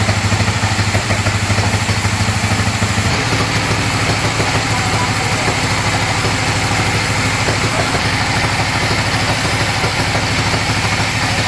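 Sawmill bandsaw's engine running steadily, its low note changing slightly about three seconds in.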